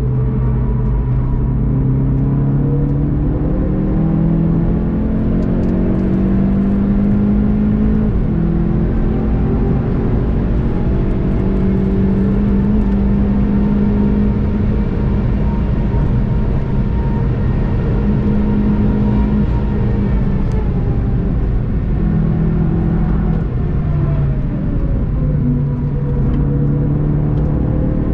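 Onboard sound of a VW Golf 7 GTI TCR's turbocharged four-cylinder engine under hard acceleration. The pitch climbs through the gears, with an upshift about eight seconds in, then holds high at full speed. It falls away as the car slows about twenty seconds in and climbs again near the end, over steady road and wind noise.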